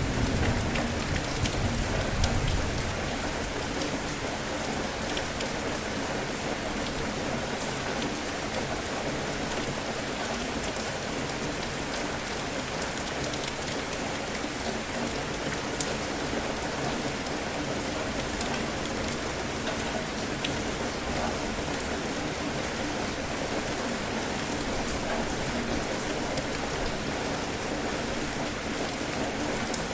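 Steady heavy rain falling. A low rumble of thunder dies away over the first few seconds.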